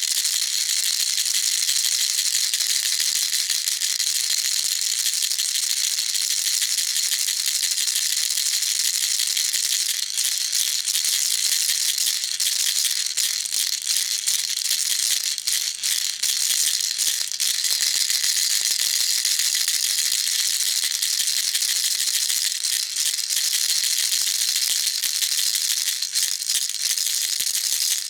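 Baby rattle being shaken without pause, a continuous dense high-pitched rattling of small beads.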